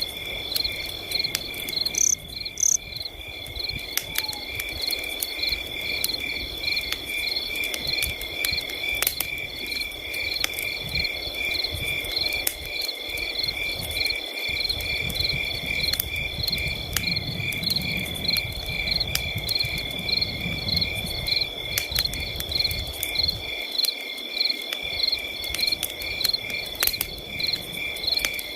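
Crickets chirping, several at once: one continuous high trill with pulsed chirps repeating about three times a second around it, over a low rumble.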